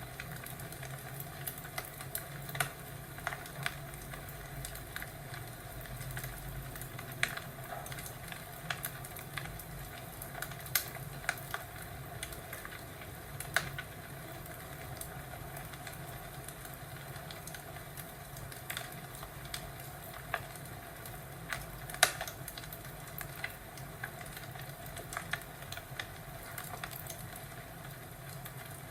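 Wood fire crackling in a fireplace: a steady low hiss with irregular sharp pops and snaps, the loudest about two-thirds of the way through.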